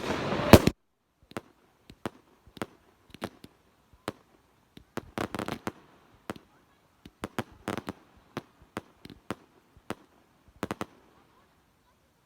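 Fireworks going off: irregular sharp bangs and crackles, loud and dense at the very start, then scattered single reports with short clusters around five seconds in and again around seven to eight seconds in.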